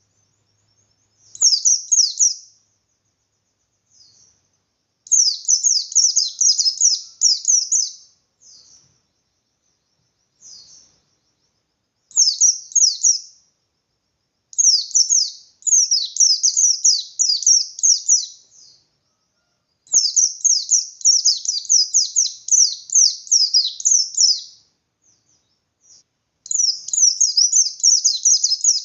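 A pleci (white-eye) singing its fast, high-pitched twittering song in rapid runs of notes. It comes in about six phrases, broken by short pauses, and the longest phrases last four to five seconds.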